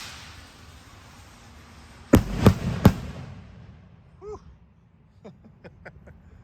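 Firework rockets: the hiss of a launch fading away, then three sharp bangs in quick succession about two seconds in, followed by a few faint scattered pops.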